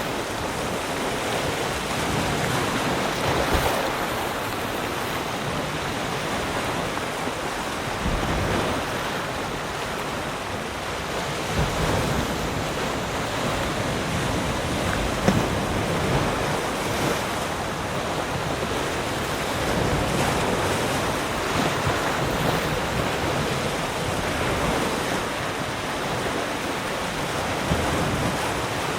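Ocean surf: a continuous rush of breaking waves that swells and eases gently.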